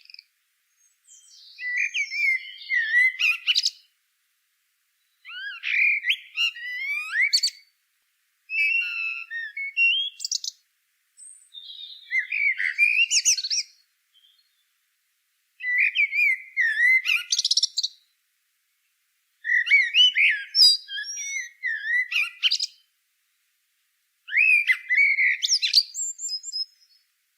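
A songbird singing seven phrases of quick, varied chirps and whistles, each two to three seconds long, with short pauses between them.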